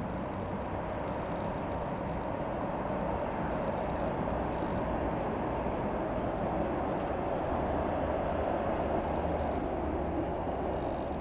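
Single piston engine and propeller of a Cessna F172N Skyhawk running steadily, a constant drone that grows slightly louder in the middle.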